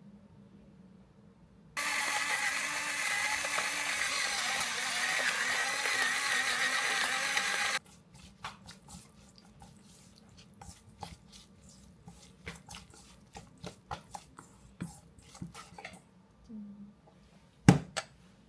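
Tap water running into a sink for about six seconds, starting and stopping suddenly, followed by scattered small clicks and knocks of kitchen handling and one sharp knock near the end.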